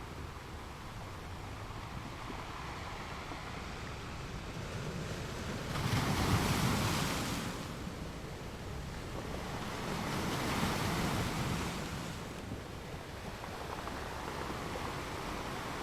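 Sea waves breaking on a shore: a steady wash of surf with two louder waves, one crashing about six seconds in and a softer one about ten seconds in, each fading back into the hiss.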